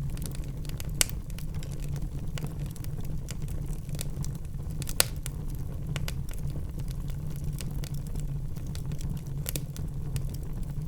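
Wood fire burning in a fireplace: a steady low rumble with scattered sharp crackles and pops, two louder pops about a second in and about five seconds in.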